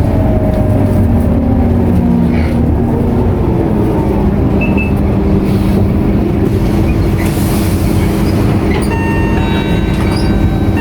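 Scania K230UB bus's diesel engine running under way, heard from inside the bus. The engine note shifts in the first few seconds, then settles into a steady drone.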